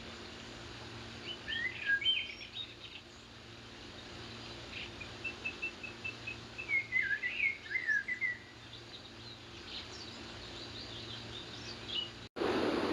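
Wild birds singing in a forest, several separate chirping and warbling phrases over a faint steady background. Near the end the sound cuts abruptly to a louder, steady rushing noise.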